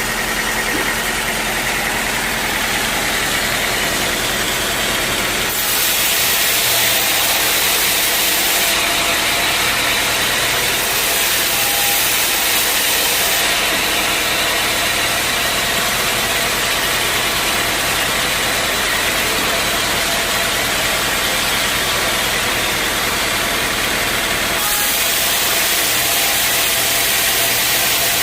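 Sawmill machinery running steadily with an engine-like hum and a hiss of noise, no cutting heard. The sound changes abruptly several times, at about 5, 9, 13 and 25 seconds in.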